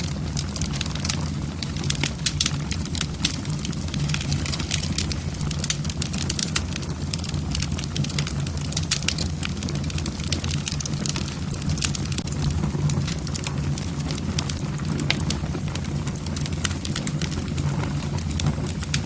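Wood logs burning in a fireplace, crackling and popping irregularly over a steady low rumble of the flames.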